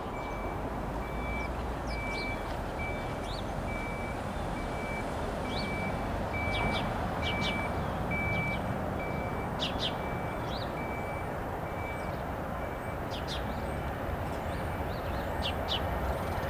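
Distant train approaching on the line, a low rumble that grows slightly louder near the end, under birds chirping. A faint electronic beep repeats about once a second and stops about twelve seconds in.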